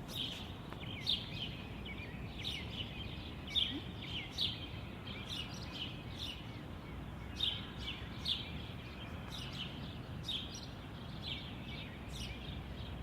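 Small birds chirping and singing: many short, quick chirps, some in brief runs, over a steady low background rumble.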